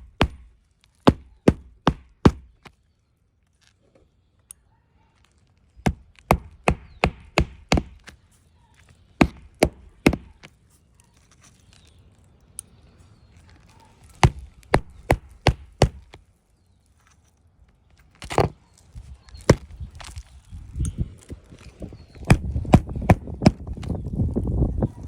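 Hammer driving roofing nails into asphalt shingles: runs of sharp blows, about two to three a second, with pauses between runs. Near the end a rough scraping noise builds under the blows.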